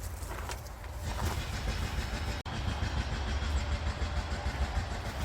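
Steady low engine rumble, like a diesel idling, with a few faint clicks in the first second; the sound drops out for an instant about two and a half seconds in.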